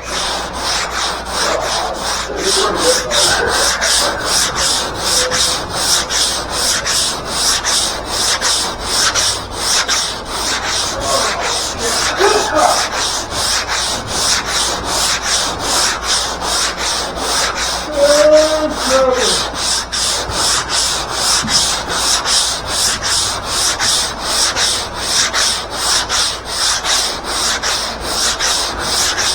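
Coarse 80-grit sandpaper being worked back and forth by hand across a car's steel roof, a steady scratchy rasp at about two strokes a second.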